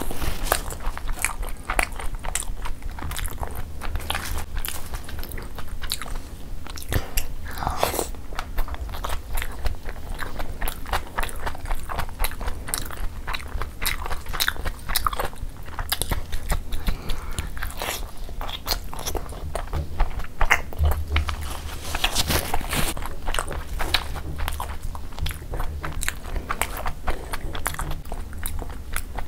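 Close-miked chewing of soft steamed chicken momos soaked in spicy gravy, with many wet mouth clicks and smacks in an irregular stream.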